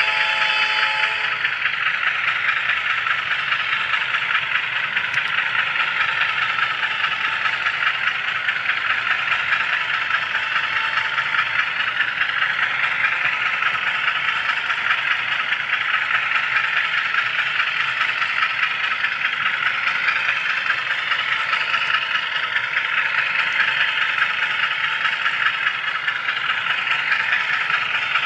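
A model train's horn ends about a second in. After it comes the steady hissing rattle of a moving HO scale model train, heard from a camera car riding on the layout.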